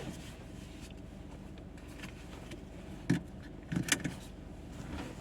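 Car driving, with a steady low hum of engine and road noise and a few short knocks or clicks about three and four seconds in.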